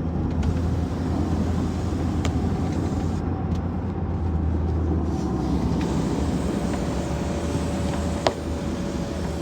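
Steady road and engine noise of a car heard from inside the cabin while driving, a low even rumble. A single sharp click comes near the end.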